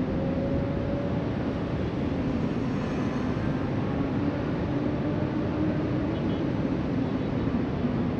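Steady wash of wind and distant surf, with a low droning hum that drifts slowly up in pitch.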